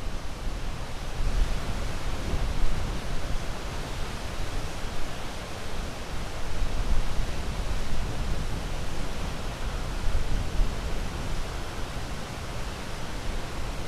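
Ocean surf: a steady wash of waves with a deep rumble, swelling and easing every few seconds.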